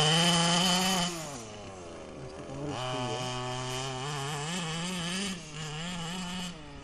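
Two-stroke petrol engine of a large-scale FG Marder model car running through a home-made exhaust pipe, revved up and down: loudest in the first second, easing off, revved again for a couple of seconds, then dropping back near the end.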